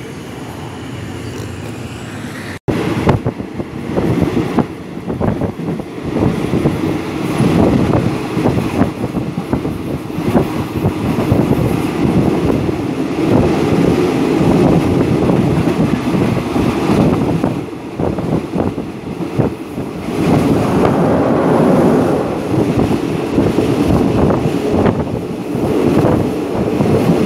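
A moving train running along the track, heard with heavy wind buffeting the microphone. About two and a half seconds in, a quieter, steadier rumble cuts off abruptly and the much louder wind-buffeted running noise takes over.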